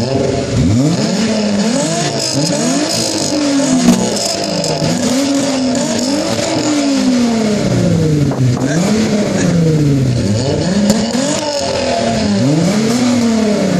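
Volkswagen Mk3 Jetta VR6 engines free-revved over and over, each rev climbing and then falling back about every one to two seconds. The revs of more than one engine overlap, as two cars are blipped at once.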